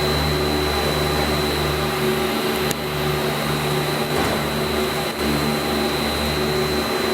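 Battery-powered mobile pallet stretch-wrapping robot running, its electric motors giving a steady hum with a thin high whine over it.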